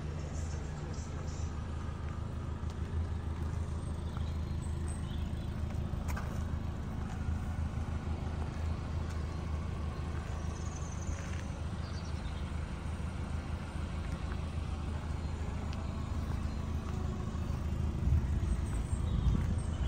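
MINI Cooper S's turbocharged four-cylinder engine idling steadily, a little louder near the end at the twin centre exhaust.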